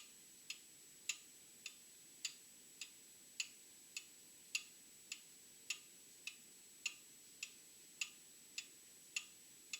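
Old mechanical clock ticking steadily, a little under two ticks a second, with the beats alternating stronger and weaker in a tick-tock. A faint steady high whine sits underneath.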